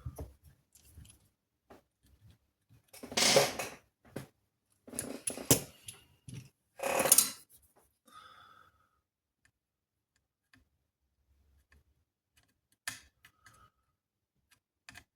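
A screwdriver prying and scraping at the hardened glue holding a capacitor on a power supply circuit board: three rasping scrapes in the first half, then a few light clicks near the end.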